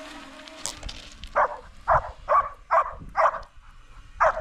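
Excited dog giving a rapid series of short vocal sounds, about two to three a second, starting about a second and a half in.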